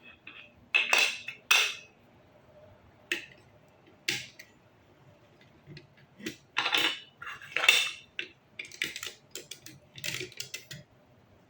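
Plastic puzzle blocks clicking and clattering as they are handled and fitted together, in irregular short bursts with quiet gaps between them. The loudest clatters come about a second in and again around seven to eight seconds in.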